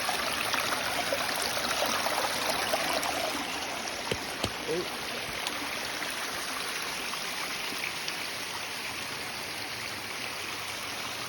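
Steady rushing of a creek with heavy flow below a waterfall, with two brief knocks about four seconds in.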